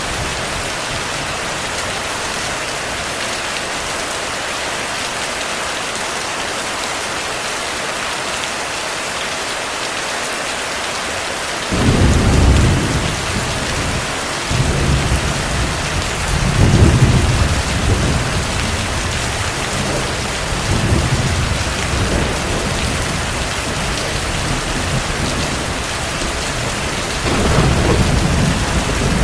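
Steady heavy rain. About twelve seconds in, deep rolling thunder begins suddenly and keeps rumbling in repeated swells to the end, louder than the rain.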